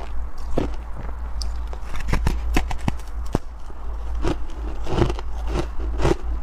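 Close-miked chewing of soft, powdery freezer frost: irregular crunches that come closer together in the second half, over a steady low hum.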